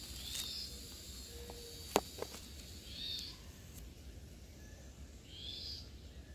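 A forest bird calling a short, high note three times, about every two and a half seconds, with a sharp click about two seconds in.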